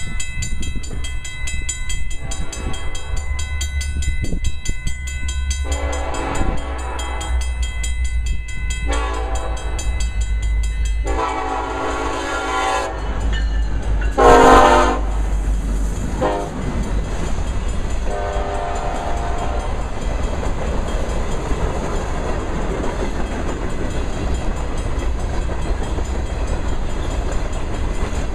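A Norfolk Southern EMD SD70ACe diesel locomotive sounds its horn in a series of blasts as it approaches and passes a grade crossing, over the low rumble of its engine. The loudest blast comes as the locomotive goes by about halfway through, and a last one follows a few seconds later. Then the empty grain hopper cars roll past with a steady clatter of wheels on rail.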